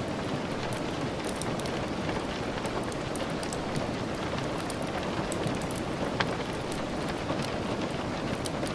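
Steady rain mixed with the soft crackle of a wood fire: an even hiss with scattered sharp pops, one louder pop about six seconds in.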